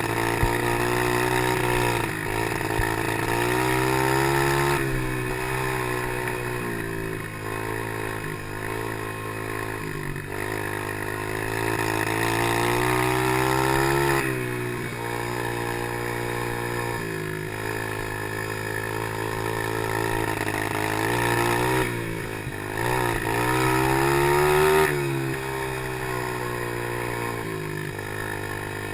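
Small geared pit bike engine (Chinese PY90) ridden around a motocross track. It revs up in long rising pulls, and its pitch drops sharply a few times as the throttle is eased or a gear changes.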